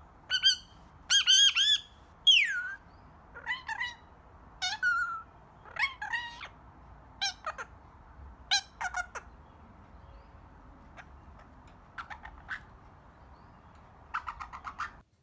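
Young Indian ringneck parrot squawking and chirping in a run of short calls, several sliding up or down in pitch, then after a pause a quick burst of chatter near the end.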